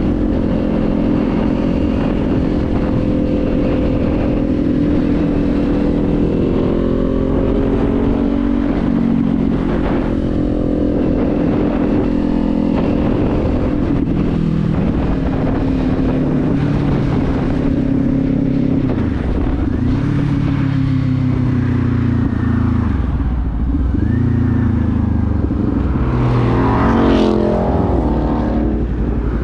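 Kawasaki motorcycle engine running under way. It holds a steady pitch at first, then drops and rises several times in the second half as the rider slows, shifts and accelerates again. Wind rumble on the microphone throughout, from strong gusty wind.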